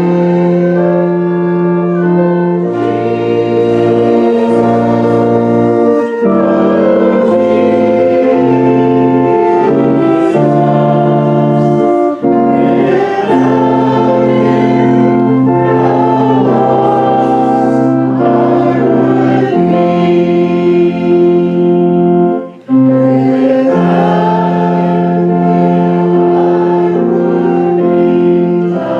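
Congregation singing a hymn with organ accompaniment, in held chords that change every second or two, with a brief break about three-quarters of the way through.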